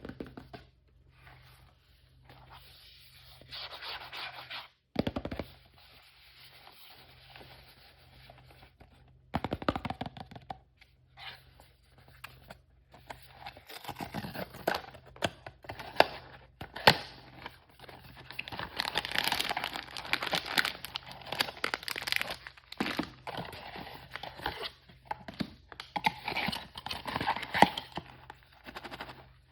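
Blind-bag toy packaging being torn open and crinkled by hand. A few scattered rustles and two dull knocks come in the first ten seconds, then steady crinkling with sharp crackles for the rest.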